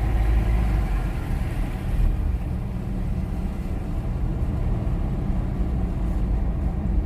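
Car driving on a wet road, heard from inside the cabin: a steady low rumble of engine and tyres with a light hiss.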